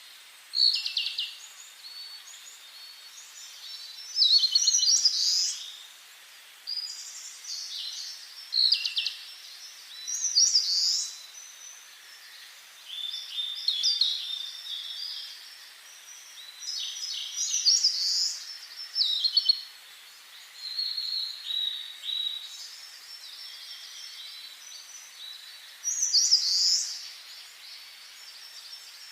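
Songbirds singing: short, high-pitched phrases of chirps and trills following one another every second or two, over a faint steady hiss.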